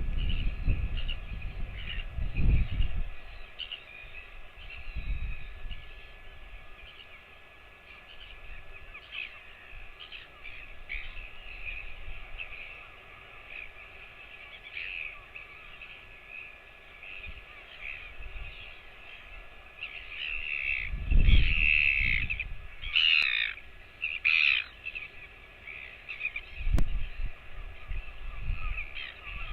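Scattered bird calls over a steady faint hiss, with a cluster of louder, harsh calls about two-thirds of the way in. Low thumps come near the start and again around the same point.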